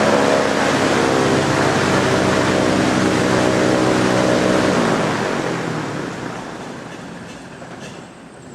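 Racing quad (ATV) engines running hard and revving. They are loud for about five seconds, then fade steadily as the quads move away.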